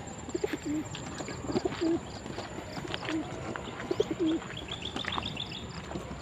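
Domestic racing pigeons cooing, about four low, wavering coos over several seconds, with a quick run of high chirps near the end.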